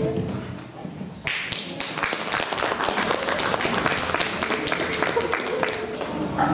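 Audience applauding, breaking out about a second in as the backing music ends and carrying on steadily.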